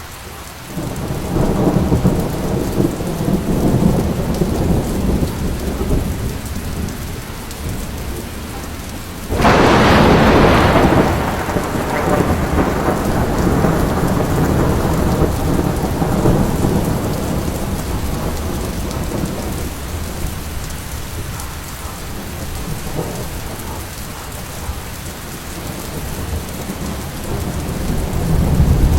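Thunderstorm: steady rain with rolling thunder, and a sharp thunderclap about nine seconds in that rumbles away over several seconds.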